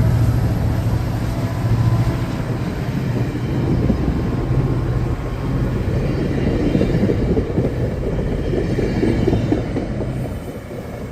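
Northstar commuter train with two diesel locomotives rumbling past, a steady low engine hum under the noise of the rolling train, easing off near the end.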